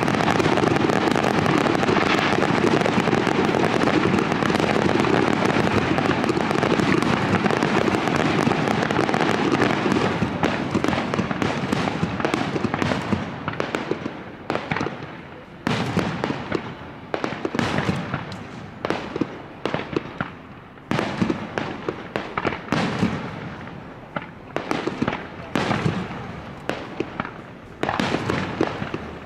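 Aerial fireworks display: a dense, continuous barrage of shell bursts for the first ten seconds or so, then thinning into separate booms a second or two apart, each trailing off.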